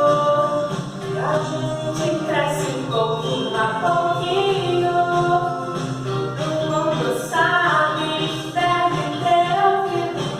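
A children's song about the stages of life and growing up, sung with music.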